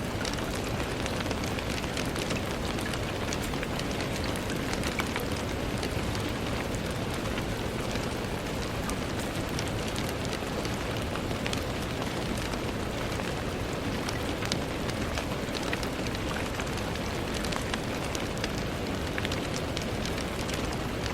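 Steady rain pattering on a window, a dense even hiss with many individual drop ticks.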